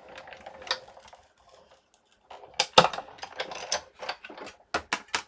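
Sizzix Big Shot Plus manual die-cutting machine being hand-cranked as a platform-and-plate sandwich rolls through its rollers. Irregular mechanical clicks and clunks, the loudest about three seconds in and a few sharp clicks near the end.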